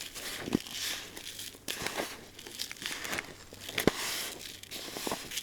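Plastic packet of bream groundbait crinkling and rustling as it is handled, with a few sharp clicks.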